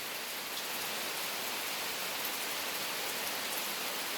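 Steady rainfall, an even hiss of rain coming down without a break.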